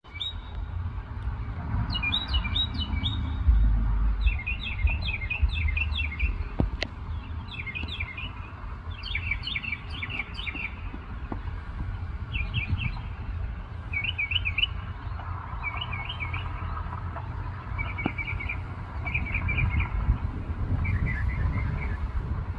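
A bird singing in short phrases of quick, high notes, repeated about every second or two. A steady low rumble runs underneath.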